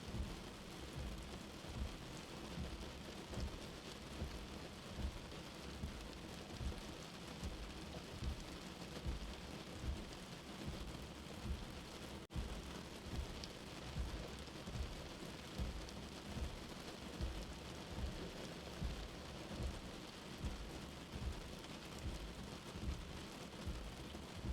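Steady rain hiss mixed with a soft, low heartbeat thump that repeats evenly about every second and a half, with a momentary dropout about halfway through.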